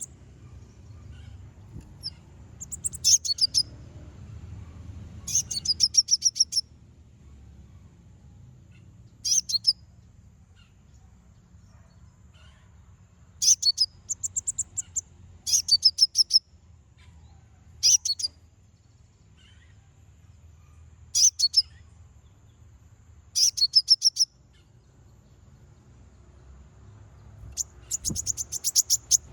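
A konin (kolibri ninja sunbird) singing in short bursts of very rapid, high-pitched chattering notes, repeated with pauses of a second or more between phrases. It is a challenging call to a rival, used as a lure to set other konin singing.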